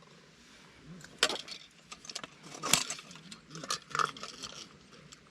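Small metal objects clinking and rattling as they are handled, in several short clusters, the loudest clink about three seconds in.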